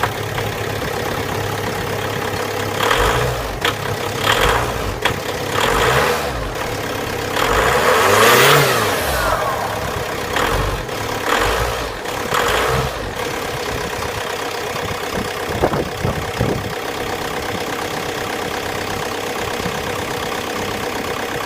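VW Passat B6 2.0 TDI four-cylinder diesel engine running. It is revved up and back down several times in the first half, once higher around the middle, then settles to a steady idle. The owner cannot place its strange noises, and says it shakes badly and knocks briefly before it starts.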